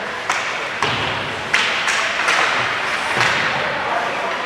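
Ice hockey game play in an arena: about six sharp knocks, scattered unevenly through the first three seconds, over a steady haze of rink noise.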